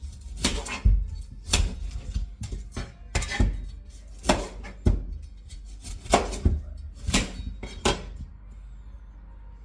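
Kitchen clatter: irregular sharp knocks of utensils and dishes, about one or two a second, stopping shortly before the end.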